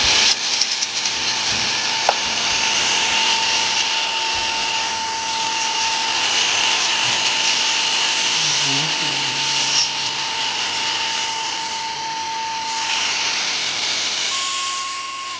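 A small electric dust-cleaning tool runs steadily inside an opened MacBook Pro A1398, cleaning out built-up dust, with a rushing hiss and a thin motor whine. The whine steps slightly higher near the end.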